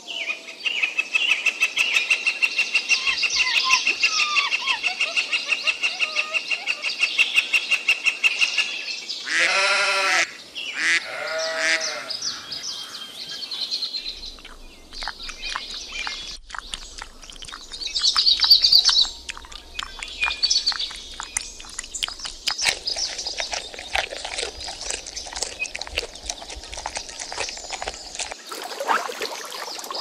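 Wildlife calls: a fast pulsing trill for the first nine seconds, then two short pitched animal calls, then scattered bird chirps and clicks with a louder burst of chirping about two-thirds of the way through.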